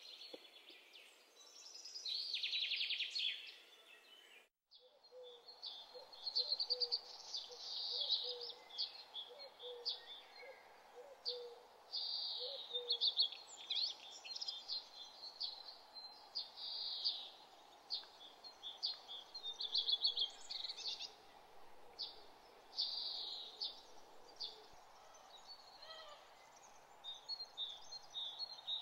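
Small songbirds chirping and twittering in quick, repeated calls over a steady hiss, with a brief dropout about four and a half seconds in.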